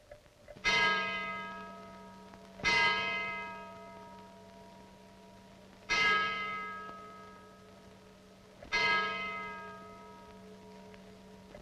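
A large bell tolling slowly: four strikes, two to three seconds apart, each ringing out and fading before the next, over a steady low hum.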